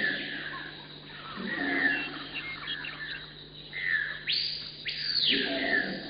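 Birds calling in short bouts, sweeping calls that rise and fall, repeated every few seconds.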